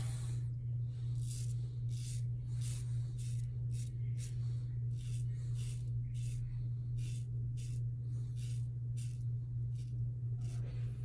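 Double-edge safety razor (KARVE, Gillette Super Thin blade) scraping through lathered stubble on the second pass, in short strokes about two a second. A steady low hum runs underneath.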